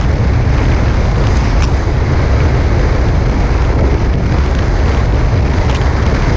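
Strong wind buffeting the microphone of a camera on a fast-sailing Tornado catamaran, a loud steady low rumble, with water rushing and hissing along the hulls.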